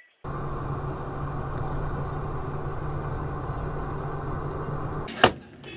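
A vehicle on the move, a steady run of engine and road noise with a low hum, then a single sharp, loud bang about five seconds in, followed by a shorter burst.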